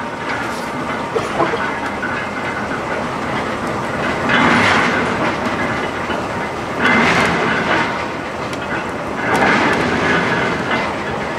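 Diesel locomotive rolling slowly by, its wheels clacking over the rail joints, with three louder rushes of clatter a couple of seconds apart.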